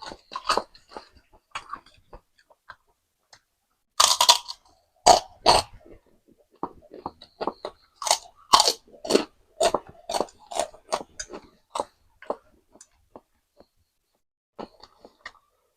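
Close-up eating sounds: crisp crunching bites and chewing of kerupuk crackers, with noodles, in irregular bursts. It is sparse for the first few seconds, busiest in the middle, and tails off near the end.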